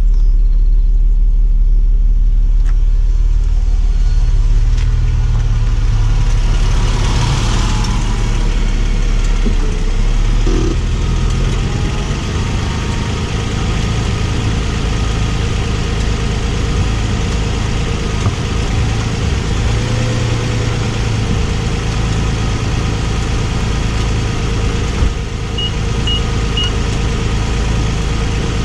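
2017 Nissan Maxima's V6 idling with a strong low rumble, then pulling away over the gravel about ten seconds in. The engine is still heard running afterwards with less low end. Three short high beeps sound near the end.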